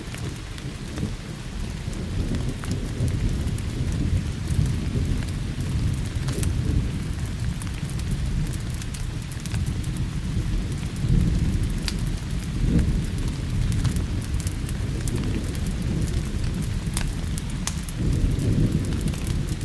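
Thunderstorm: rolling thunder rumbling low and continuously, swelling and easing, over steady rain, with scattered sharp crackles of a wood fire.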